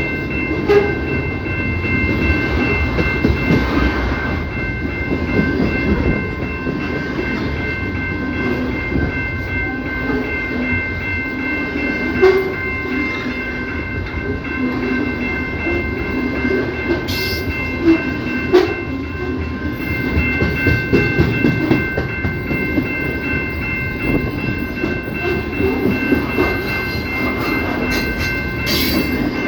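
CPKC train rolling past: a steady low rumble of rail cars with a few sharp clanks from the wheels and couplers, and faint steady high-pitched tones held throughout.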